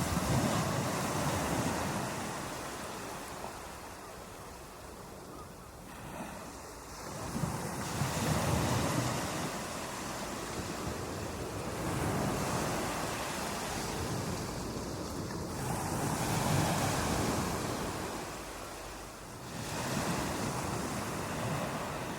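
Ocean surf breaking on a beach: a wash of rushing water that swells and eases in five surges, one about every four seconds.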